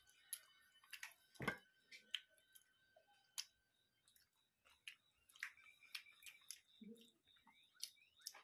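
Quiet eating sounds: scattered wet mouth clicks and lip smacks of people chewing pork curry and rice, with one louder knock about a second and a half in and a short hummed "mm" near seven seconds.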